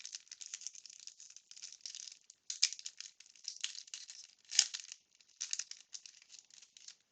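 Wax paper pack wrapper crinkling and baseball cards rustling as they are handled, a run of short, soft crackles with a louder crinkle about four and a half seconds in.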